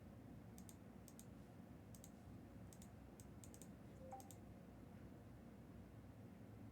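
Near silence with faint, irregular computer keyboard clicks, often in quick pairs, falling off after about four seconds.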